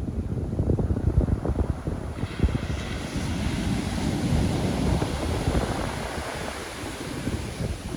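Pacific Ocean surf: a wave breaks about two seconds in and washes in as a broad hiss that fades near the end, with wind buffeting the microphone.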